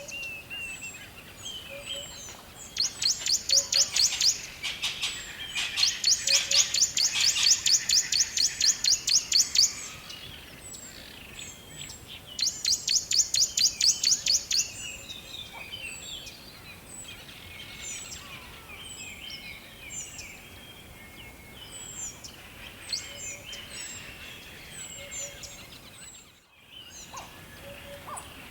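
Forest birdsong: one bird repeats a fast, high trill in loud bursts of a few seconds, three times in the first half, while other birds give softer scattered chirps throughout.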